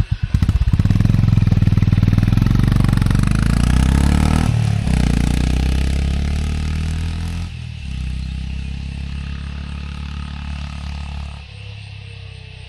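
Honda H'ness CB350's air-cooled single-cylinder engine firing up and running, its exhaust note loud and throbbing. The revs dip and climb again about four and a half seconds in, then drop to a lower, quieter running note about halfway through.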